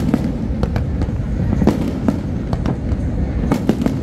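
Fireworks display bursting: a string of sharp bangs and crackles in quick succession over a continuous low rumble.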